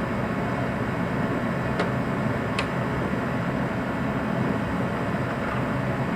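Steady low background hum, like a fan or shop machinery, with two short sharp clicks less than a second apart about two seconds in, as parts and bolts are handled during alternator bracket work.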